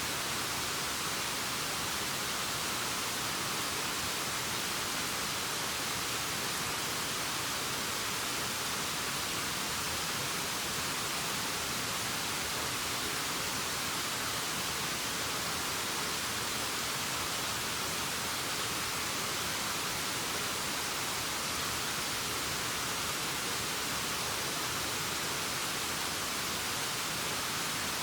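Steady, unchanging rushing hiss of a waterfall, strongest in the high end with little low rumble.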